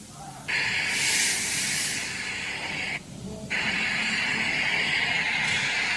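A loud, steady hiss like a pressurised jet that starts about half a second in, breaks off for about half a second near the middle, then starts again.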